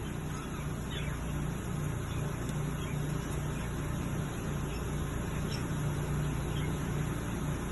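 A steady low rumble, with a few faint, brief chirps from cage birds such as canaries and parakeets scattered through it.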